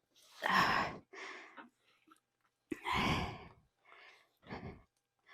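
A woman's heavy breathing from exertion: two loud sighing exhales about two and a half seconds apart, with quieter breaths between and after, as she tires from holding her balance.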